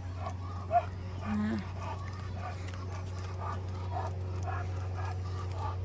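Walking footsteps, about two a second, over a steady low hum.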